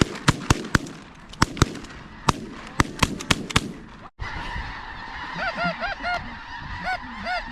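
Snow geese calling in a big flock: a dense chorus of many short, high honks. Through the first half, a quick series of sharp clicks sounds over the chorus, and a little past halfway the sound cuts out for an instant.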